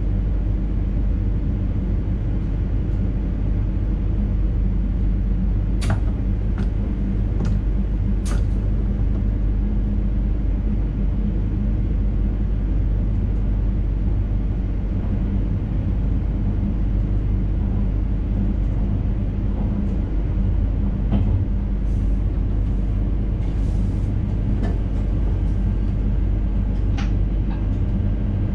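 Steady rumble of an NS Intercity train running along the line, heard from inside the driver's cab, with a few sharp clicks and ticks scattered through it.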